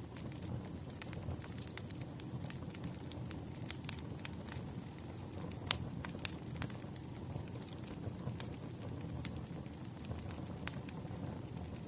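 Burning firewood: a steady low rumble of the fire with scattered sharp crackles and pops, one louder pop about halfway through.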